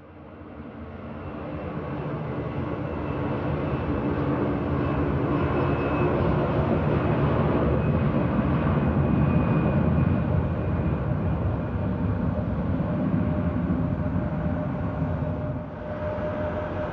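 Airbus A320 airliner's jet engines at takeoff power: a broad roar that swells over the first couple of seconds and holds strong. A short dip comes near the end, after which a steady hum joins the roar.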